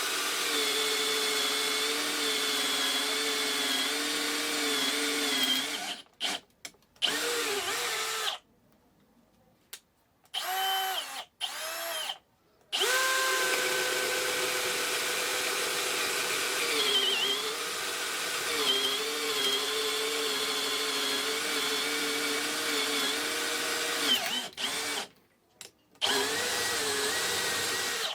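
Bosch GSR 185-Li cordless drill running in a series of trigger pulls: a steady whine that stops and restarts several times, with short bursts and a long run in the middle. Its pitch dips briefly a few times, as the motor slows under load.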